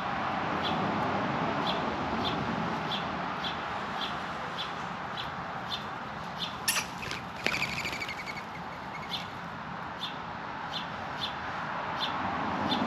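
Birds calling at a feeder: one bird repeats a short high chirp just under twice a second throughout. A louder, harsher squawking call with overtones cuts in about seven seconds in and lasts about two seconds. Underneath is a steady background hiss.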